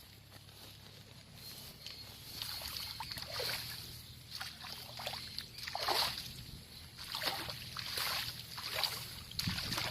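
Someone wading through knee-deep paddy water, with a slosh and splash at each step about once a second. It starts faint and grows louder after the first couple of seconds.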